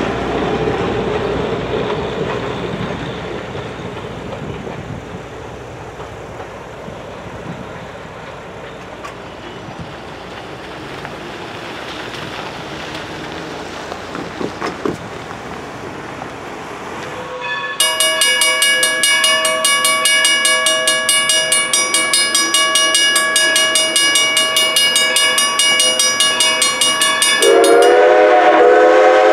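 Train cars rolling away over the crossing, their rumble fading, followed by a few quieter seconds with a car passing. More than halfway through, a railroad crossing bell starts ringing rapidly and steadily. Near the end, a locomotive horn sounds over the bell.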